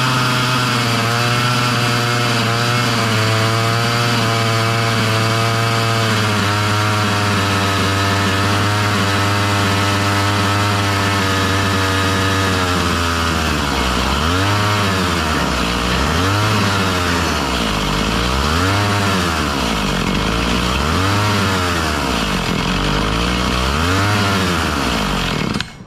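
Husqvarna 445 two-stroke chainsaw engine running unloaded at a fast idle with its low-speed mixture screw turned half a turn in. For about the first half the speed holds fairly steady. Then it starts hunting, surging up and falling back about every two seconds, before the engine is cut off suddenly near the end.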